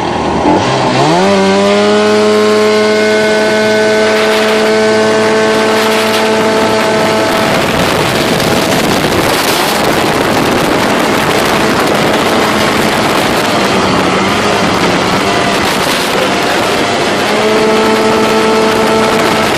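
Jet boat engine revving up sharply about a second in and holding steady at high revs, loud. For several seconds in the middle a rush of wind and water drowns out the engine tone, which comes through again near the end.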